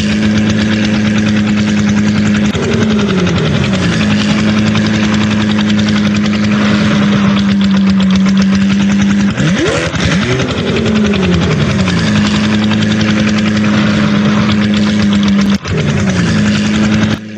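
Tractor engine sound running steadily at a loud level, its pitch sliding down three times, with a wavering swoop in pitch about ten seconds in.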